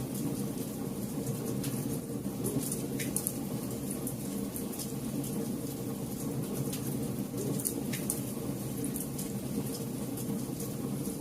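Wood campfire burning: a steady low rush of flame with frequent sharp crackles and pops from the burning wood.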